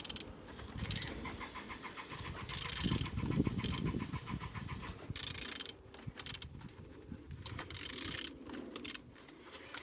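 A car engine being turned over by hand, with rapid, even clicking as it rotates and several short bursts of hiss.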